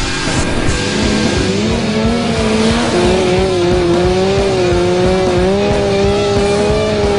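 Vehicle tyres squealing in a long wavering whine that rises about a second and a half in and then holds, over engine noise.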